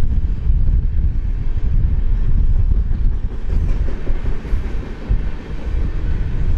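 A freight train running past, with a steady low rumble.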